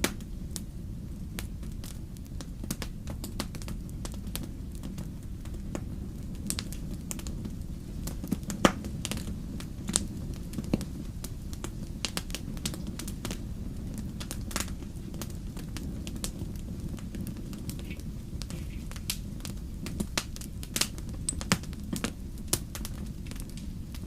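Wood fire crackling in a fireplace: a steady low rumble with irregular sharp pops and snaps, the loudest about a third of the way in.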